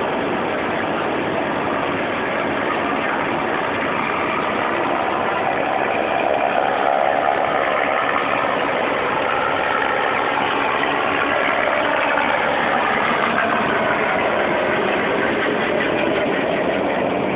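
Helicopter engine and rotor running steadily, a continuous loud drone that swells slightly midway.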